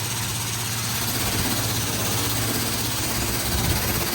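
Steady low machine hum under an even hiss of spraying water: a self-serve car wash's high-pressure wand running on the soap setting, with the soap not coming out properly.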